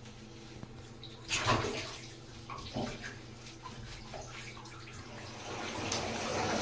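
Water splashing in a bathtub in a small, echoing bathroom, with a louder splash about a second and a half in. Running water grows louder near the end.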